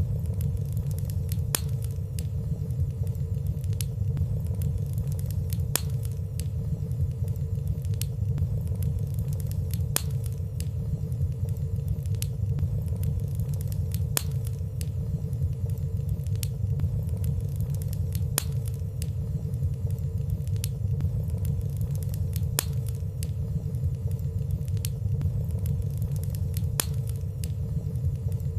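Fireplace fire burning: a steady low rumble of flames with frequent light crackles, a few sharper clicks recurring about every four seconds.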